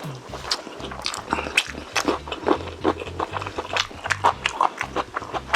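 Close-miked wet chewing and lip-smacking while eating Korean braised chicken, a quick run of sticky clicks and smacks several times a second.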